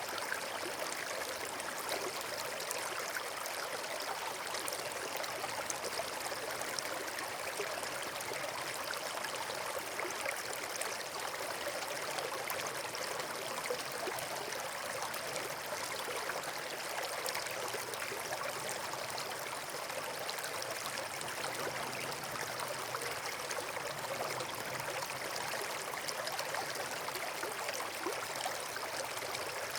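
Steady running water, like a stream or small waterfall, with a dense even splashing texture and no change.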